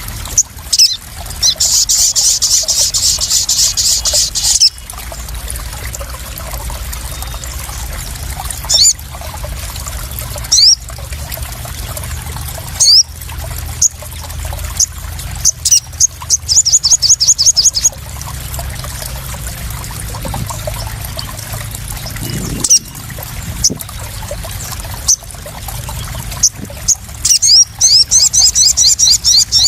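Crimson sunbirds calling: sharp, high single chirps and three fast, high trills of a couple of seconds each, near the start, midway and near the end. Under them runs the steady sound of trickling, splashing water.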